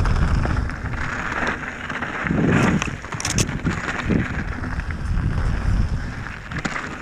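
Riding a Transition Sentinel V2 mountain bike on a trail: wind rumbles on the microphone over tyre noise, with scattered rattles and clicks from the bike, heaviest around the middle.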